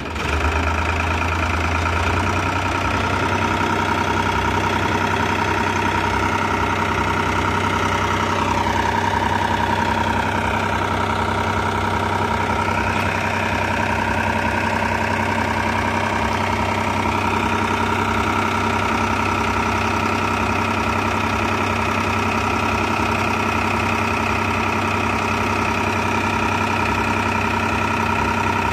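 Diesel tractor engine idling steadily. About nine seconds in its note sags and then recovers a few seconds later.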